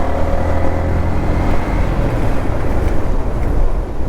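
Yamaha MT-15's single-cylinder engine running at highway speed, heard from on the bike with a steady rush of wind noise. Its engine tone is clearest in the first half, then sinks into the wind and road rush.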